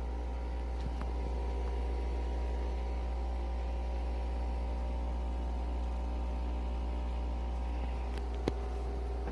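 Nespresso Vertuo Next coffee machine brewing: a steady motor hum as it spins the capsule, with a single click near the end.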